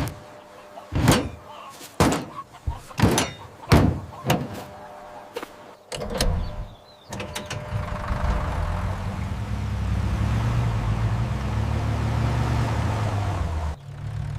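A string of sharp knocks and thunks, then a vehicle engine running with a steady low rumble through the second half, cutting off shortly before the end.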